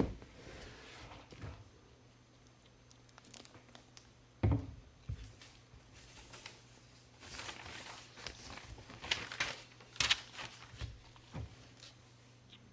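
Plastic packaging crinkling as it is handled on a table, with a few knocks, the loudest about four and a half seconds in and again about ten seconds in.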